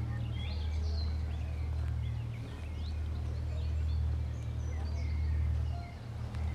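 Several songbirds singing, many short chirps and quick whistles overlapping, over a steady low rumble.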